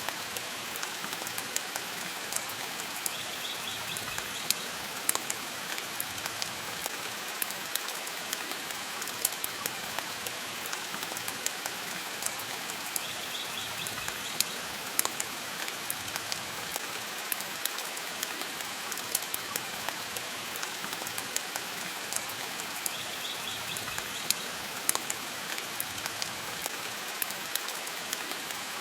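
Steady rain mixed with a crackling wood fire: a constant hiss with frequent sharp pops scattered through it.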